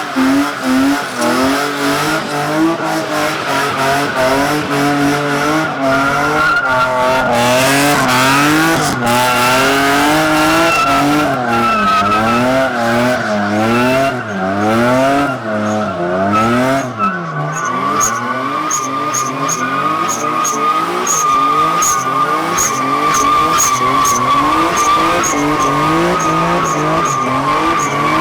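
Car spinning its tyres in donuts: the engine revs rise and fall in quick repeated swells while the tyres squeal steadily. About two-thirds of the way through, the revs even out and the tyre squeal holds one steady pitch.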